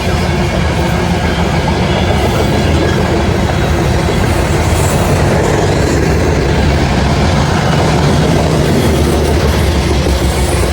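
Train passing close by, a loud, steady rumble of wheels on the rails with clatter.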